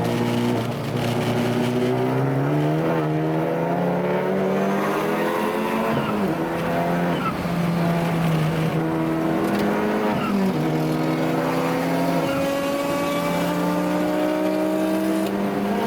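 Race car engine under hard acceleration on track, its pitch climbing and then dropping sharply several times as it shifts gears.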